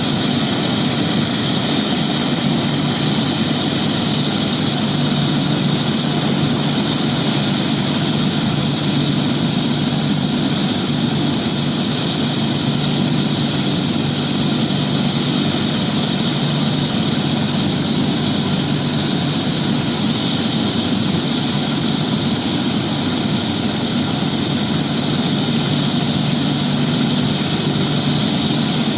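Air-ambulance helicopter running steadily: its turbine engine whining high over the even hum of the rotor, with no change in pitch or level.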